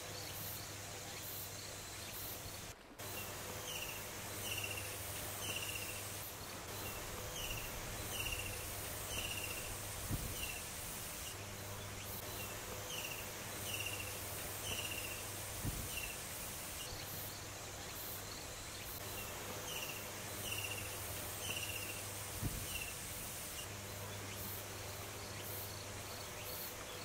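A bird calling in runs of short, falling chirps, about one and a half a second, over a steady outdoor hiss.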